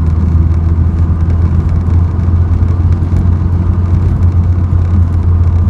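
Ford Escort RS Turbo's 1.6 CVH turbo engine running steadily under way, heard from inside the car as a constant low drone with road noise. The engine is new and still being run in, so it is driven off boost.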